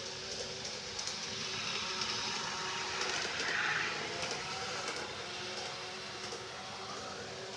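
G-scale garden model train running along its track, a steady mechanical running noise with light clicks, swelling briefly about halfway through.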